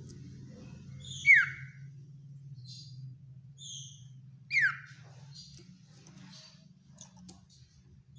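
Common iora (sirtu/cipoh) calling: two loud, sharp whistles that slide downward, about three seconds apart, among softer high chirping notes, over a steady low hum.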